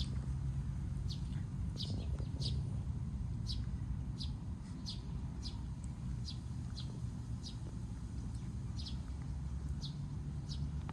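A small bird chirping over and over, short high chirps that drop in pitch, about one or two a second, over a steady low rumble.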